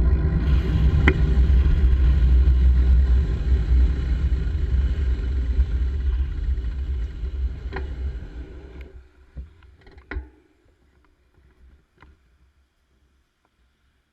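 Wind and riding noise rumbling on the camera microphone while the bike is moving. It dies away about nine seconds in as the bike comes to a stop, leaving a few light clicks.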